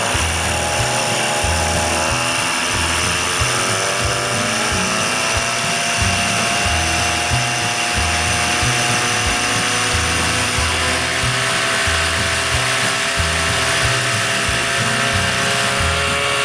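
1975 Evinrude 40 hp two-stroke outboard running under way, its pitch climbing over the first few seconds as it is throttled up, then holding steady, with music playing underneath.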